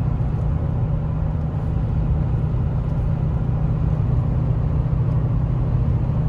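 Steady low rumble of a 2007 Toyota Tundra pickup driving down the road, engine and tyre noise with no grinding from the front axle now that the worn needle bearing has been replaced.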